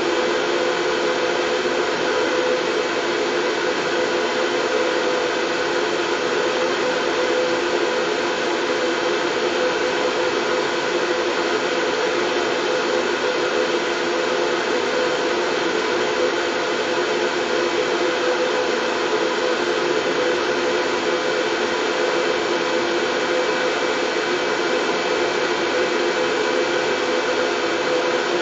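Steady white noise: an even, unbroken hiss with a hum-like band in the low-middle range, unchanging in level throughout.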